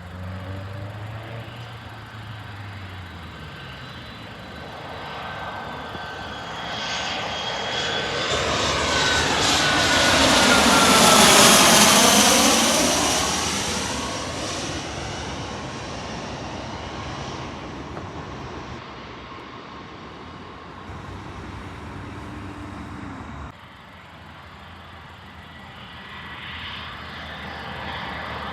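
Fixed-wing aircraft passing low overhead: engine noise builds to a peak about halfway through, with a whine that falls in pitch as it goes by, then fades away.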